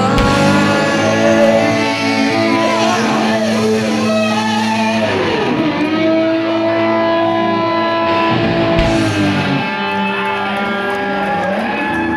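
Live rock band playing an instrumental passage, with guitar notes held long and sliding in pitch over the band.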